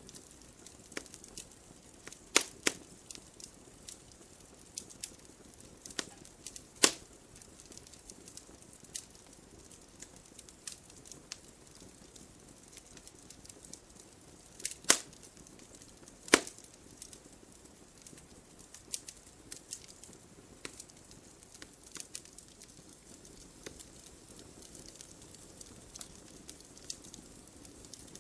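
Wood logs burning in a fireplace, crackling with many small irregular ticks and a handful of loud sharp pops, over a faint steady rush of the fire.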